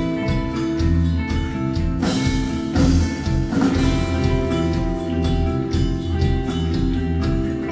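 Live post-rock band playing: sustained electric guitar notes over a fast, even drum beat, with cymbal crashes about two and three seconds in.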